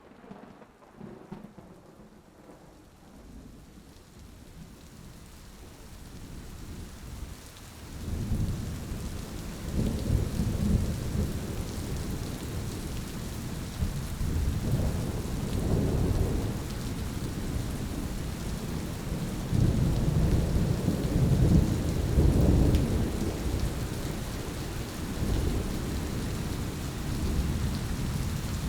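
Thunderstorm: steady rain hiss fades in and builds, then deep rolling thunder rumbles again and again from about a quarter of the way in.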